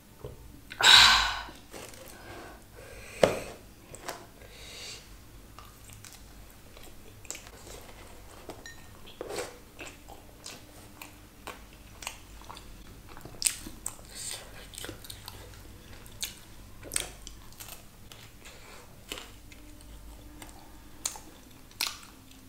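Close-up chewing and biting of food, with short crisp crunches and clicks scattered throughout. There is a loud brief noise about a second in and a sharp knock a couple of seconds later.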